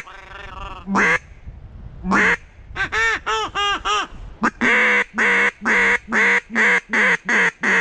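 Mallard duck call blown close by: two single loud quacks, a quick run of five short notes, then a steady string of about ten loud quacks, calling to circling ducks.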